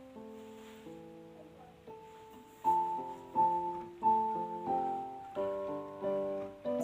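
Background piano music: soft held chords, then a louder melody of struck notes from about two and a half seconds in.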